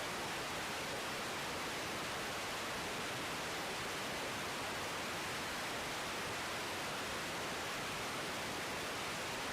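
Steady, even hiss of static-like noise, unchanging throughout.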